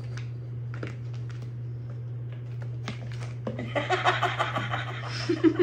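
Plastic bowl scraping and knocking on a tile floor as a cat trapped under it scoots around, over a steady low hum. The scraping turns louder and denser about three and a half seconds in.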